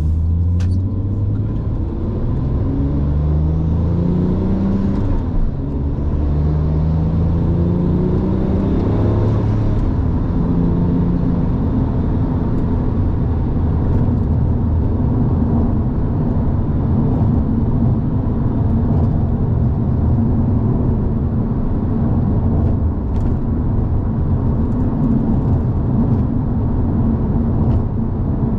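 2007 Porsche 911 Turbo's twin-turbo flat-six accelerating through the gears: the engine pitch rises twice, dropping at each upshift about five and ten seconds in. It then settles into a steady cruise with road noise.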